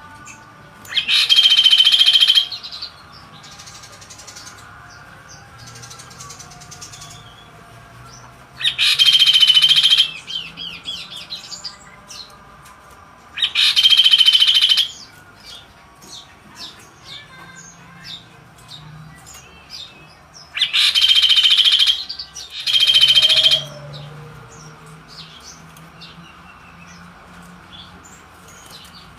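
Kaso-kaso songbird singing in loud bursts of about a second each, five bursts in all, the fourth and fifth close together, with faint chirps between them.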